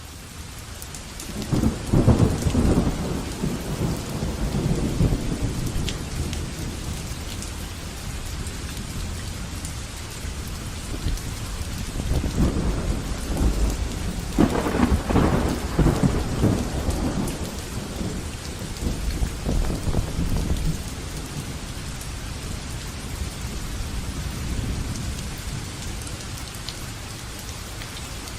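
Water beating down on a camper van's body during a leak test: a steady rushing patter, with deep rumbling surges a couple of seconds in and again through the middle.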